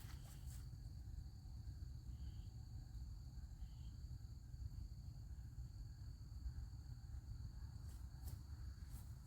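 Crickets chirring as a steady high-pitched drone, over a low rumble, with a few faint clicks near the end.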